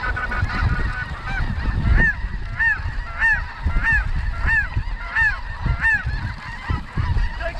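Snow goose calls: a steady run of high, arched honks, roughly one and a half a second, over a low rumble.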